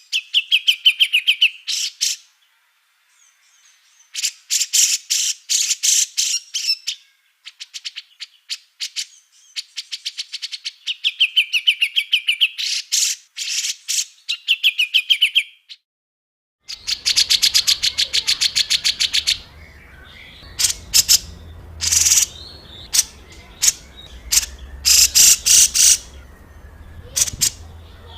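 Small songbirds calling in bursts of very fast, harsh chattering notes (the 'rough shots' used to tutor songbirds), some phrases ending in short trills. A little before the 17-second mark there is a brief silence, and a different recording follows with a low hum under the chatter.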